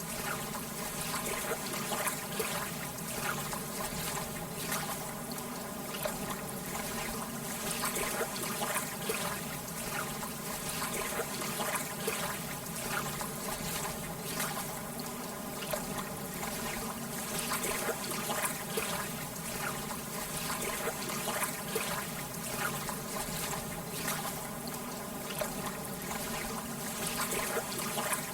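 Lake water lapping and trickling steadily: a constant wash of many small splashes.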